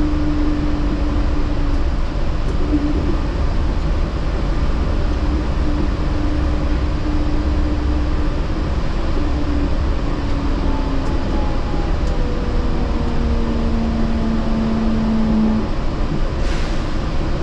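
Yurikamome Line rubber-tyred automated train running along its guideway, heard from inside: a steady rumble of tyres and running gear, with a faint whine that slides slowly in pitch. A short hiss comes near the end.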